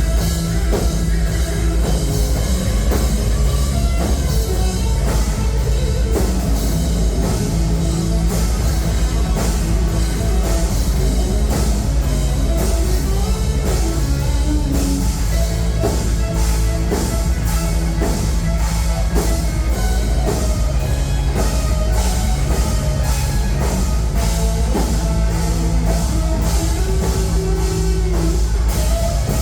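Heavy rock band playing live, with a drum kit, electric guitars and bass.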